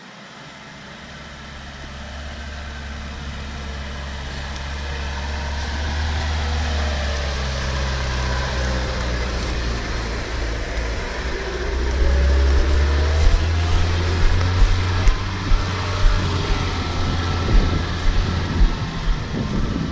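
Off-road vehicle driving with a low engine and road rumble that grows steadily louder. Regular thumps start about two-thirds of the way through.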